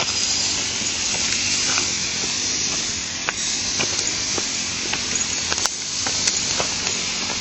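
Rushing water of a small river, a steady hiss, with scattered light clicks over it.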